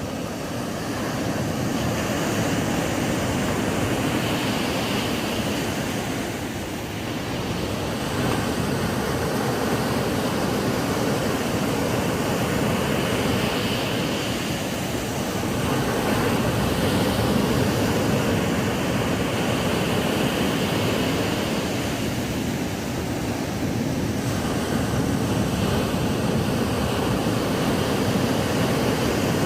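Ocean waves washing onto a sandy beach, a steady surf hiss that swells and eases every several seconds as sets of waves break.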